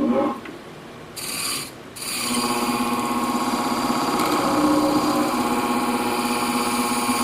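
Sharpening machine running steadily with an even hum and whir while a ceramic shear edge is polished on it with fine diamond abrasive spray. A brief hiss comes about a second in, before the steady running starts.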